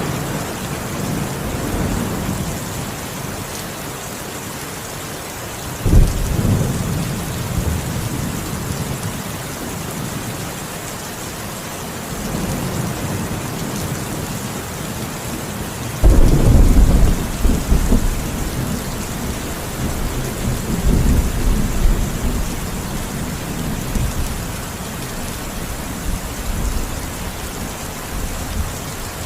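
Steady heavy rain with thunder: two sharp cracks of thunder, about six and sixteen seconds in, each rolling off into a low rumble, the second lasting several seconds.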